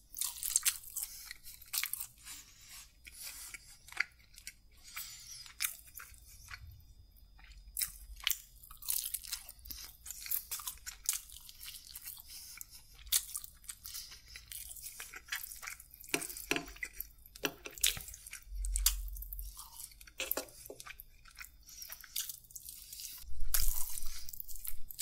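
Close-miked eating: biting into and chewing a chicken drumstick, full of small wet mouth clicks and smacks. A few louder low bumps come about three-quarters of the way through and again near the end.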